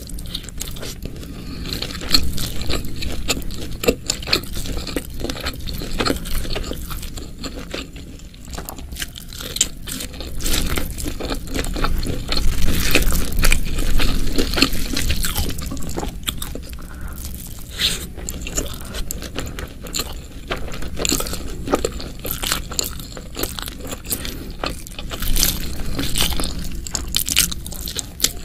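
Close-miked eating: crunchy bites and chewing of food, a dense, irregular crackle of small clicks.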